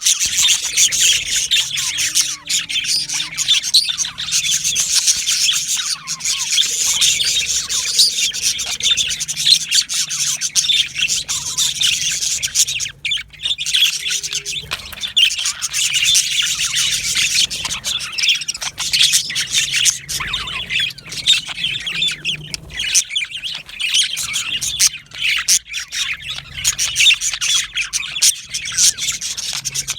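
A flock of budgerigars chattering and chirping nonstop, many high calls overlapping, with the odd squawk.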